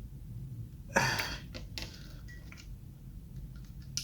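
Light clicks and taps of metal parts being handled while the N20 engine's timing chain tensioner is pushed in and pinned, with one short, louder noise about a second in and a sharper click near the end.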